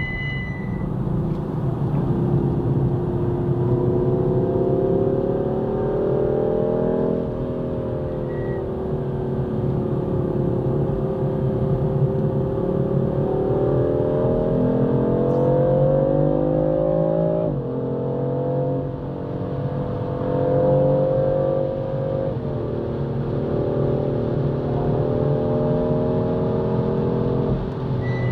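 BMW car engine heard from inside the cabin, pulling hard through the gears. The pitch climbs and drops sharply at each upshift, four times, and falls away slowly once while the car slows for a corner.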